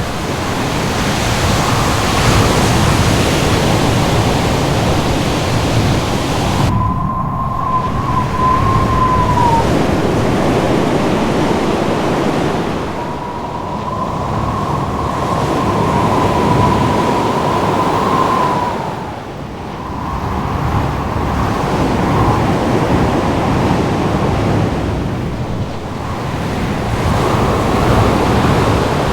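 Ocean surf and wind in a dense, continuous wash of noise that swells and ebbs. A thin, high howl of wind whistles at a nearly steady pitch about seven seconds in and again for several seconds from about thirteen seconds.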